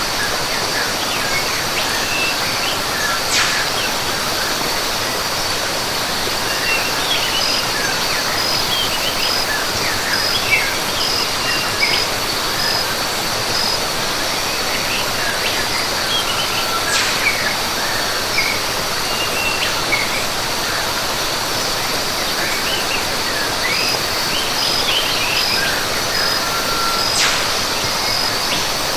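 Rainforest ambience: a steady rush of falling water, a continuous high insect trill with a short pulsing note repeating over it, and birds chirping on and off.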